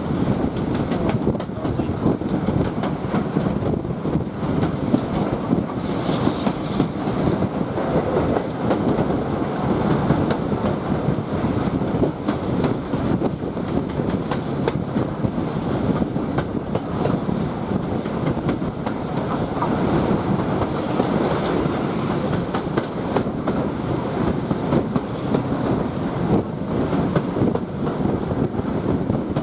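Railway carriage running along the track: a steady rumble with the clickety-clack of wheels over the rail joints, heard from on board.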